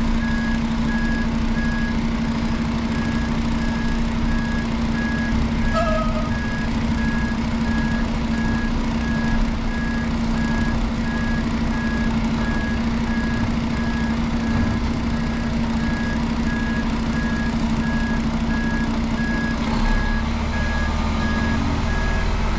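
Truck backup alarm beeping steadily, a single high tone repeating about twice a second, over the low, steady hum of the truck's engine running. The beeping stops near the end.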